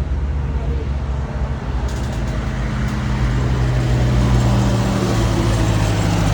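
Vehicle engine running with a steady low drone, growing a little louder about halfway through.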